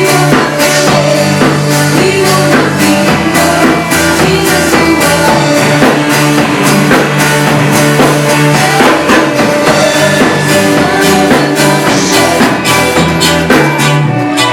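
Live worship band playing a rock-style song at full volume, with a drum kit keeping a steady beat under held bass notes, and singing.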